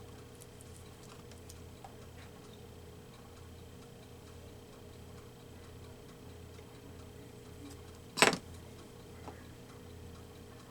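Quiet tabletop handling noises from collage work: faint scattered ticks over a steady low hum, then one sharp click about eight seconds in and a softer tick a second later.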